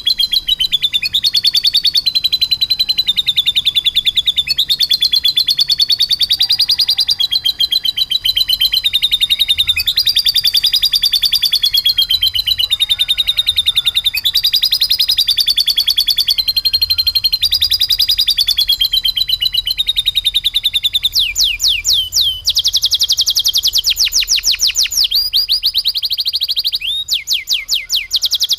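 Domestic canary singing without pause, a fast rolling trill made of lovebird-style phrases that change every second or two. From about three-quarters of the way in, it switches to rapid repeated sweeping notes.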